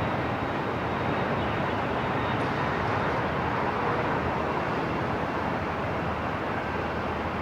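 Airport ambience: a steady, even rumble and hiss of aircraft and vehicle noise, with a faint steady hum running through it.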